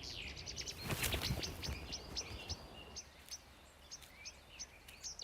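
Faint songbird chirping: many short, high, quick down-slurred notes repeated over and over, with a brief rush of noise about a second in.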